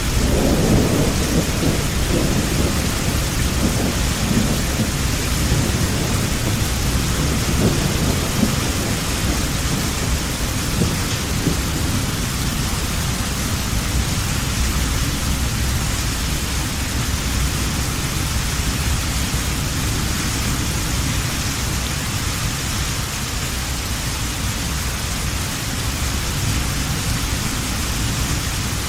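Heavy rain falling steadily, with a low rolling thunder rumble at the start that dies away over the first several seconds.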